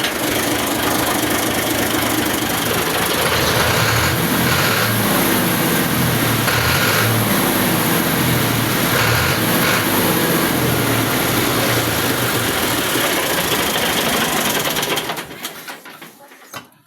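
Tractor engine running loudly and steadily, then shutting off about fifteen seconds in, followed by a few clicks.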